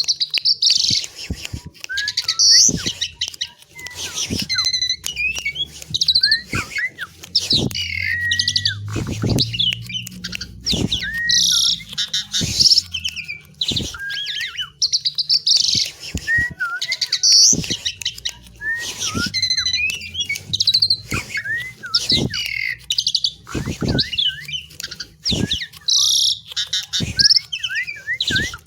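Asian pied myna singing vigorously: a rapid, varied run of whistles, rising and falling glides, harsh squawks and sharp clicks, delivered in bouts with brief pauses between them.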